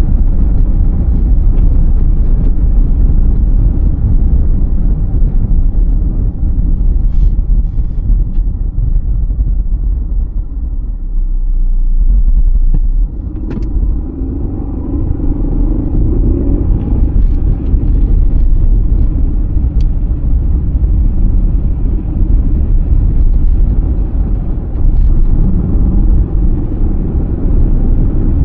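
A car driving through snow: a loud, steady low rumble of road and engine noise, with a few faint clicks.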